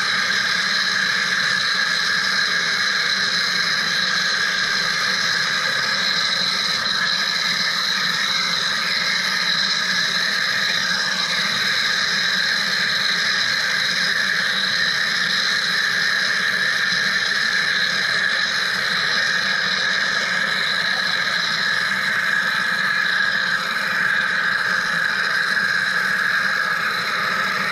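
Wire EDM (electrical discharge) machine running steadily while cutting: a constant high hiss with whining tones over a low hum.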